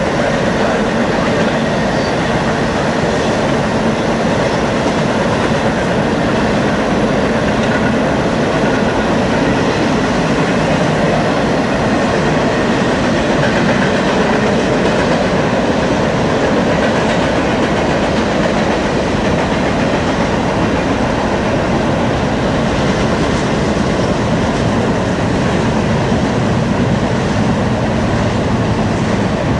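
Railroad cars rolling past, their steel wheels running on the rails in a loud, steady rush of noise.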